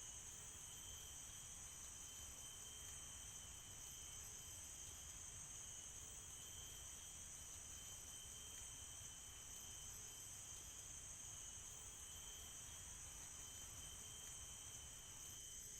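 Faint, steady chorus of tropical forest insects, several high unbroken trilling tones held throughout.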